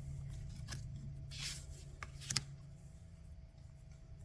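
Tarot and oracle cards being handled: a brushing slide of card stock about a second and a half in, and a few light clicks and taps as cards are laid down. A steady low hum runs underneath.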